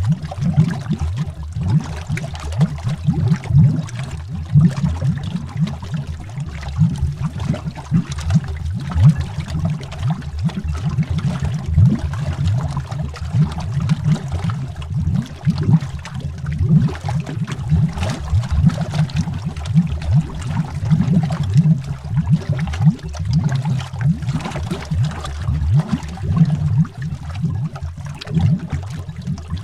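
Underwater bubbling: a steady, continuous stream of small bubbles popping and gurgling, deep and muffled.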